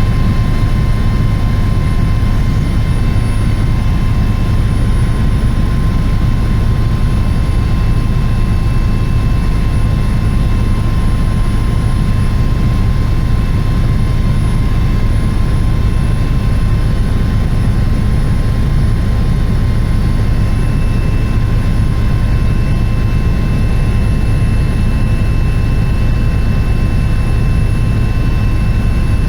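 Helicopter in flight: a steady, loud low drone of rotor and engine with a thin constant whine above it, unchanging throughout.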